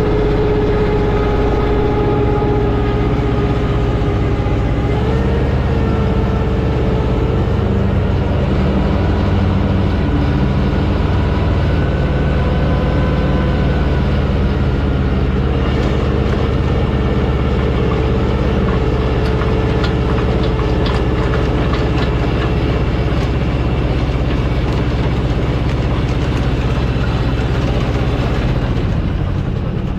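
Allis-Chalmers tractor engine running steadily while powering a post hole digger, its pitch shifting a few times as the load changes.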